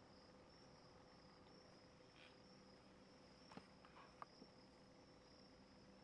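Faint, steady high-pitched insect chorus with a slight pulse, with a few soft clicks about three and a half to four and a half seconds in.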